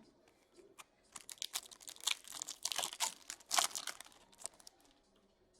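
Crinkling and tearing of a trading-card pack's wrapper as it is ripped open and handled, an irregular crackle lasting about three and a half seconds, starting about a second in.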